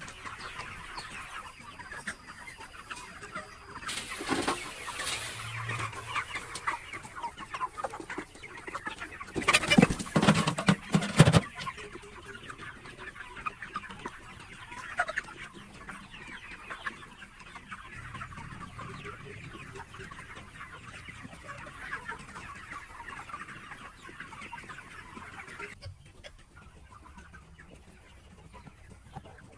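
A flock of capons clucking and chattering steadily, with two louder bursts of rustling noise partway through. The clucking dies down near the end.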